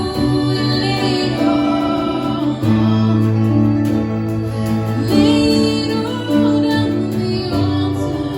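Slow worship band music: long held chords over a steady bass, with a woman's voice singing wordless held notes.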